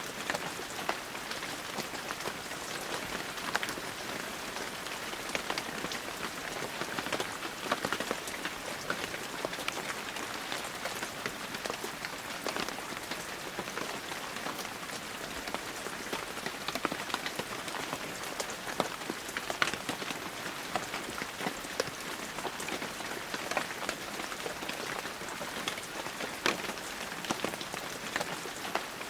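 Heavy rain falling steadily, an even hiss dotted with many sharp, close drips and splashes of individual drops.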